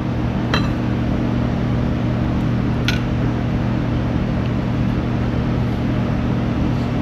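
A steady mechanical hum, with two light metallic clinks of hand tools about half a second in and again near three seconds in.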